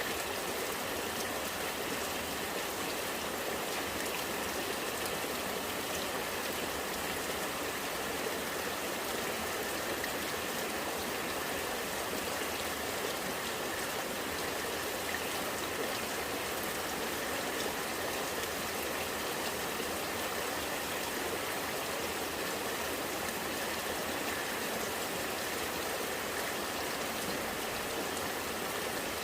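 Rainwater running and gurgling in a steady, unbroken rush.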